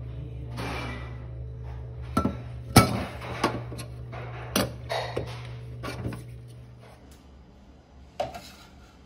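Hard household objects knocking and clinking as they are handled and set down, about eight separate knocks with the loudest near three seconds in, over a low steady hum that fades out about seven seconds in.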